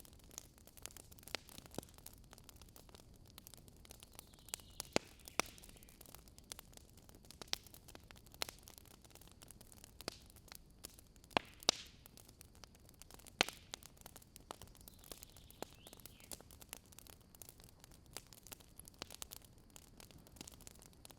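Campfire of burning wood crackling, with irregular sharp pops and snaps over a faint background. The loudest are two pops close together a little past the middle.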